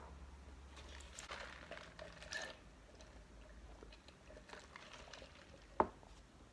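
Quiet close-up eating and food-handling sounds: soft rustling and squishing with scattered small clicks, and one sharp click near the end.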